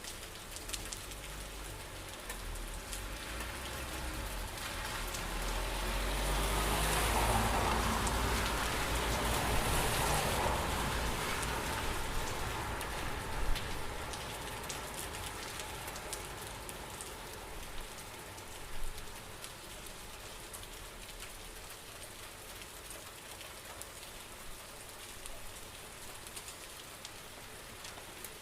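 Steady rain falling, with scattered sharp drop ticks. It swells louder for several seconds about a quarter of the way in, with a deeper rumble under it, then settles back.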